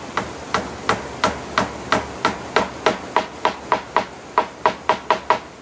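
Hammering: a run of about eighteen sharp, evenly spaced strikes, roughly three a second and a little faster near the end, each with a brief ringing tone.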